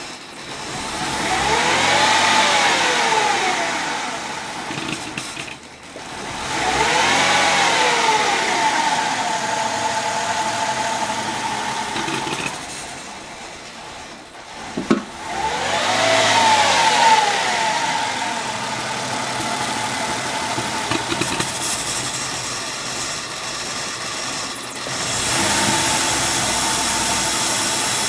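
Mercedes-Benz C240's V6 engine running, revved up and let fall back three times with steady running between, and a sharp click about 15 seconds in. The engine has the rough idle that its owner later traced to a failing fuel pump.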